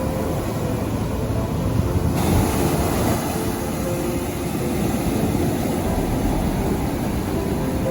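Ocean surf breaking and washing on a sandy beach: a steady rumbling wash with no clear pauses.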